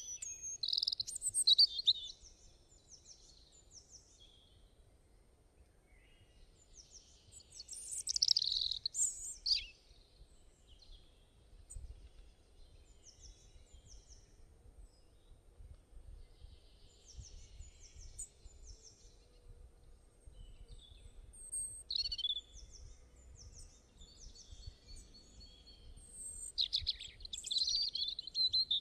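Birds singing in bursts of high chirps and trills: at the start, about eight seconds in, and again near the end, with scattered single chirps and quiet stretches between.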